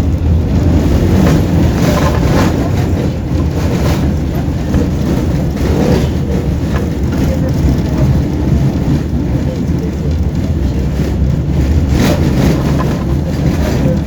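Tram running along its track, heard from inside the passenger car: a steady low rumble of wheels and running gear, with a few knocks and rattles.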